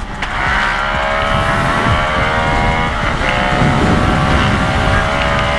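Motorcycle engine running at a steady speed while riding, its pitch holding nearly constant with a slight change about three seconds in, over low wind rumble on the microphone.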